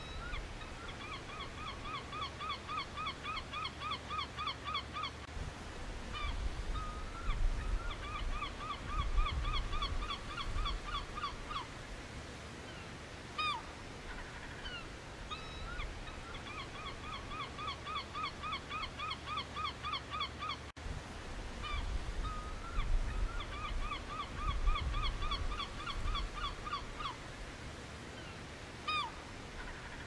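Birds calling: runs of rapid, evenly spaced honking notes, about four to five a second, each run lasting several seconds, with single calls in between. A low rumble sits underneath.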